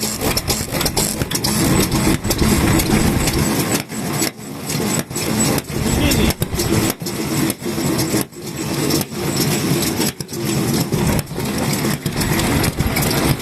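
Vintage Japanese stationary kerosene engines (hatsudoki) running, with a fast, uneven chugging beat that keeps dipping and picking up again.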